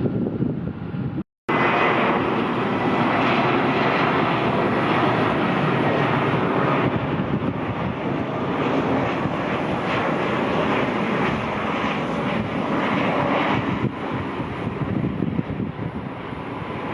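Jet airliner engines, a loud steady rush with a faint high whine, cutting in after a brief dropout about a second in and easing off slightly near the end.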